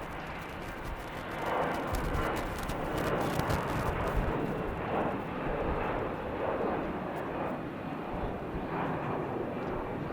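Passenger jet passing close by, its engine noise a broad rumble that swells about a second and a half in, stays loud and then eases slightly near the end.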